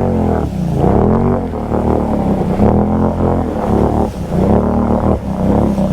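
ATV engine revving hard in deep clay mud, its pitch sagging and climbing again several times as it bogs and spins its tyres. The machine is getting stuck.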